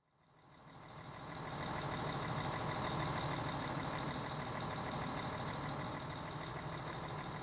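Fire truck engine idling steadily, fading in over the first two seconds.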